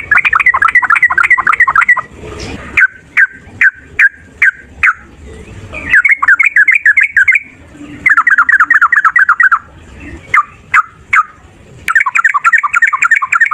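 Yellow-vented bulbul singing its loud, rapid 'ropel' fighting song. Fast rattling trills of sweet notes alternate with runs of single spaced notes, about two a second.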